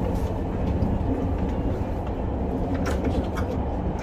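Steady low running rumble of an SR 120000-series high-speed train (SRT), heard from inside a passenger car, with a few faint clicks.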